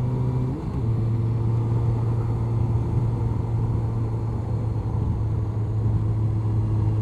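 2002 Honda CBR1100XX Blackbird's inline-four engine running steadily at road speed under a hiss of wind. About half a second in its note briefly dips and changes pitch, then it settles into a steady hum.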